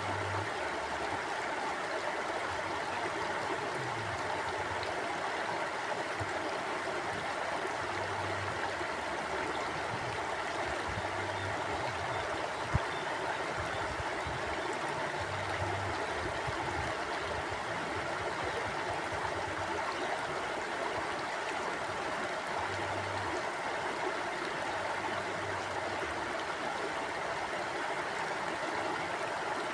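River water flowing in a steady, even rush, with soft low rumbles coming and going beneath it. One brief knock sounds about thirteen seconds in.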